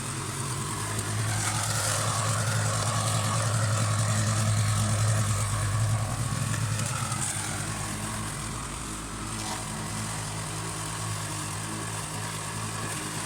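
Pull-start petrol lawn mower engine running steadily while cutting grass, louder for a few seconds near the start and then evening out.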